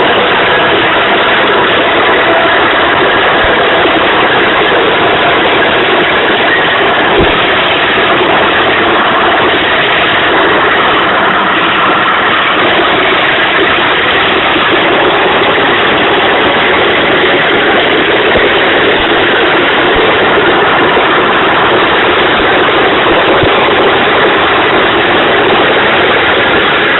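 Tractor engine running steadily under load, loud and harsh: a constant rasping drone that overloads the recording.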